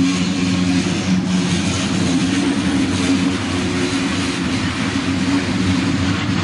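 Freight train of covered hopper cars rolling past at steady speed, with an even rumble and rattle of wheels on the rails.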